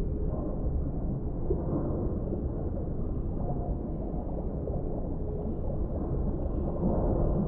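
Deep-sea underwater ambience: a steady, muffled low rumble of water, with no high sounds at all.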